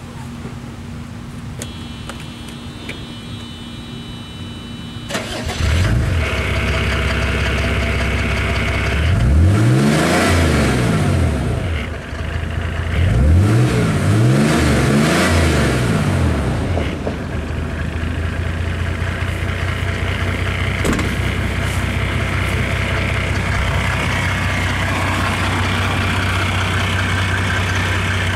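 1987 Mercedes-Benz 300D's turbo-diesel straight-six starting about five seconds in and idling through a new Hushpower Pro 3-inch muffler. It is revved up and back down twice, then settles into a steady idle with a mellow exhaust note.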